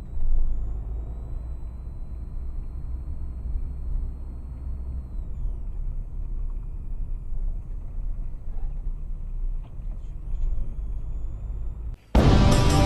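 Steady low rumble of a moving vehicle, engine and road noise, that cuts off abruptly near the end as music starts.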